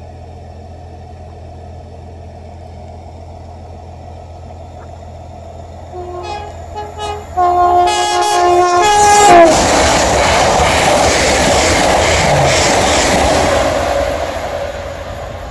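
A train sounds its two-tone horn, a short blast and then a longer one whose pitch drops as the train goes by. It then passes at speed with a loud rush of wheel and air noise that peaks and fades over several seconds.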